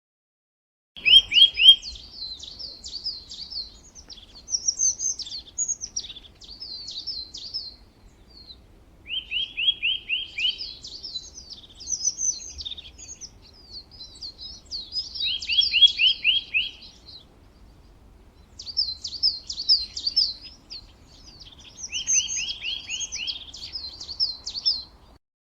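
A songbird singing the same phrase four times, starting about a second in: each phrase opens with a quick run of about six clipped notes and goes on into a high, fast twittering warble.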